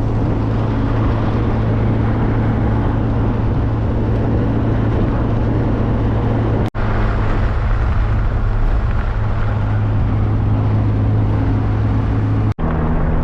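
Classic car cruising at steady speed: a low, steady engine drone under a broad rush of tyre and wind noise. The sound cuts out for an instant twice, about halfway through and near the end.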